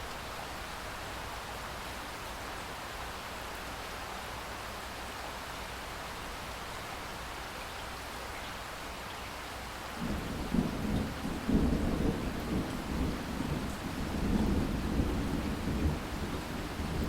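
Steady rain falling as an even hiss; about ten seconds in, a low rumble of thunder starts suddenly and goes on to the end, swelling and fading in loudness.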